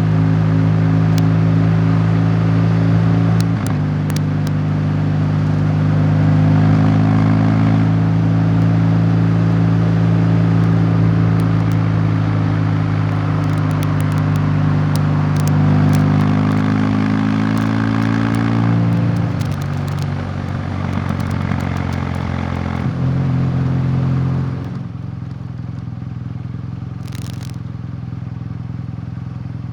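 Vehicle engine running while under way, its pitch shifting a few times as engine speed changes, with road and wind noise. About 25 seconds in it drops to a quieter, lower, steady hum.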